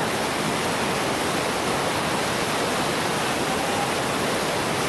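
Whitewater rapids rushing steadily: a dense, unbroken noise of fast river water.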